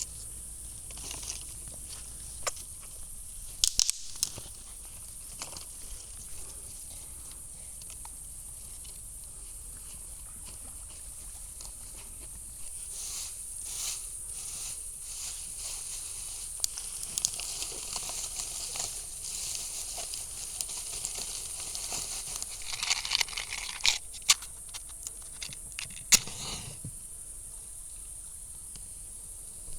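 Outdoor ambience: a steady high-pitched hiss with scattered clicks and short rustles, and a longer stretch of rustling handling noise near the end.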